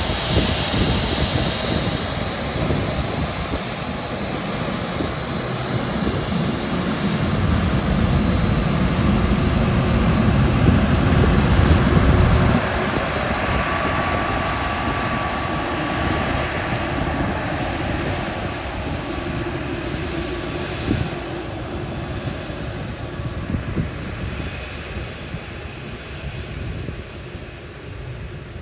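Airbus A380 jet engines running at takeoff thrust: a loud, steady rumble that swells toward a peak and then drops off suddenly about twelve seconds in. After the drop the sound fades slowly as the aircraft moves away.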